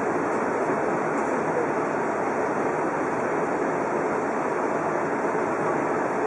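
Steady running noise of an Odakyu Romancecar VSE (50000 series) electric train, heard from inside the front observation lounge: an even rumbling hiss of wheels on the track and air past the body, holding a constant level.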